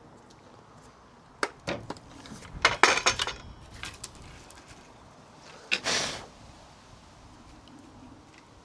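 Scattered knocks and clatters of sawn branches and tools being handled on a workbench, a few single knocks and a busier cluster about three seconds in, another about six seconds in.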